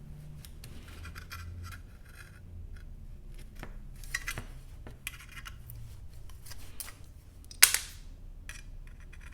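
Hand snips cutting 18-gauge sheet steel: a run of short, crisp snipping clicks, with one sharp knock about three-quarters of the way through.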